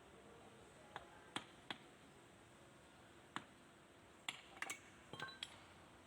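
Sharp metallic clicks and clinks, about ten spread irregularly over a few seconds and bunched together near the end, some with a brief ring: hand tools and metal parts being handled during tractor axle work.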